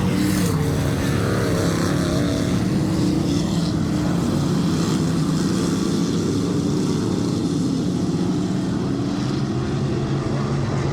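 A field of dirt-track race cars running laps together, a steady engine drone whose pitch rises and falls as the cars go around.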